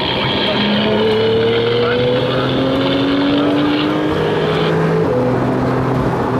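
Engine of a 2017 Porsche 911 Carrera S, its twin-turbo flat-six, heard from inside the cabin, pulling hard out of a corner with the revs rising steadily. The pitch shifts about five seconds in, as at a gear change.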